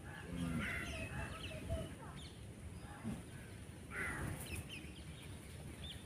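Birds calling, with louder calls about half a second in and again about four seconds in, and short higher chirps in between.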